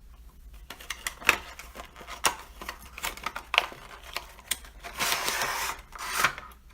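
Cardboard-and-plastic packaging of a Hot Wheels 5-car pack being torn and pulled open: a run of crackles and sharp clicks, with a denser tearing noise of just under a second about five seconds in.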